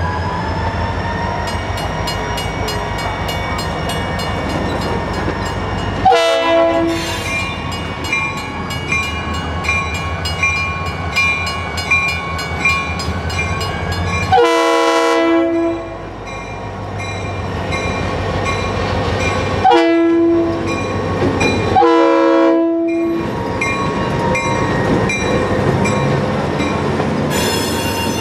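A Florida East Coast Railway diesel freight locomotive running under switching, sounding its horn: two short blasts about six seconds in, then a long one, a short one and a long one. A faint regular ringing repeats through the first half.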